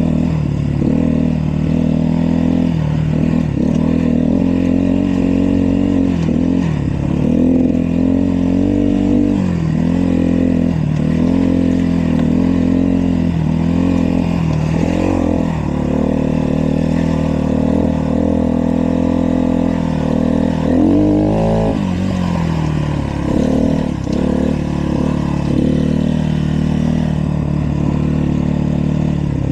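Dirt bike engine running under way, its pitch rising and dropping every second or two as the throttle is worked and gears change, with one bigger drop and rise about three-quarters of the way through.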